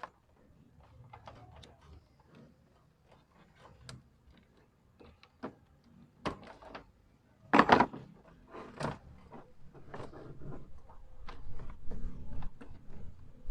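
Scattered clicks and knocks of hand work as a car's IPDM, the plastic relay-and-fuse module, is unclipped and pulled out, with the loudest clatter about seven and a half to nine seconds in. The module is being removed because its number 3 cooling fan relay is missing and its socket is burnt.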